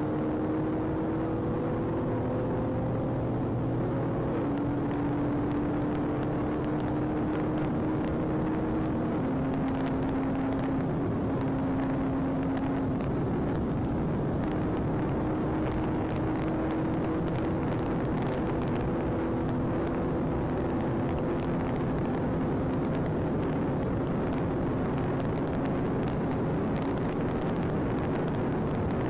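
A vehicle under way at speed, probably a car: a steady engine note that shifts pitch in steps several times, over constant road and wind noise.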